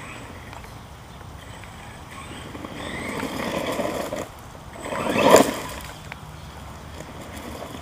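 Redcat Volcano RC truck driving: electric motor whine and tyre noise that swell as it comes closer around three seconds in, with the loudest surge a little past five seconds, then fading back.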